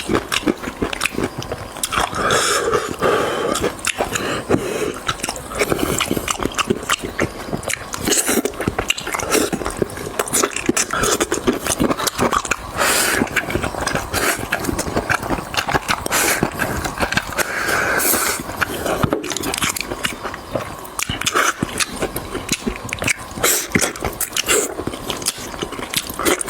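Close-miked eating sounds: continuous chewing, biting and wet mouth smacking, with many small crackles and clicks.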